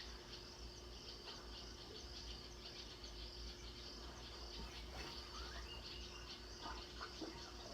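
Nature-documentary ambience: a steady insect chorus trilling high and fast, with scattered short chirps, over a faint constant low hum.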